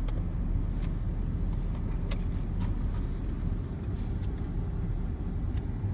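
A car's engine idling as it creeps forward, heard from inside the cabin as a steady low rumble, with a few faint, scattered clicks.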